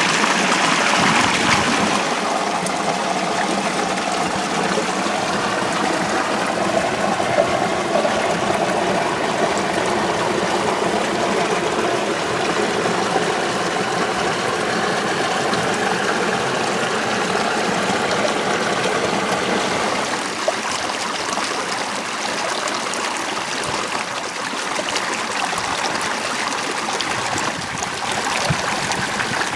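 Water running steadily along an irrigation ditch, a constant rushing flow whose tone shifts slightly about two seconds in and again around twenty seconds in.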